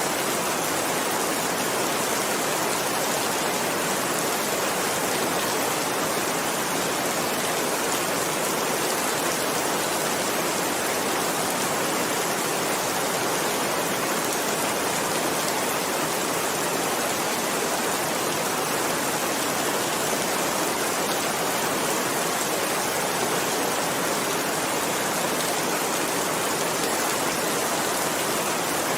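Heavy rain falling steadily: a constant, even hiss of countless drops, unchanging throughout.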